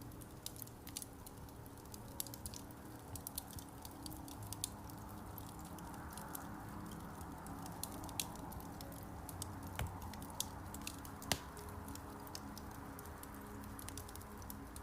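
Wood fire crackling in a fireplace: irregular sharp pops and snaps over a soft hiss. Faint soft music runs underneath.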